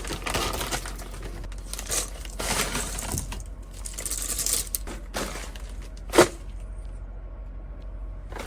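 Rustling and crinkling of food packaging as snacks are packed up, with one sharp knock about six seconds in.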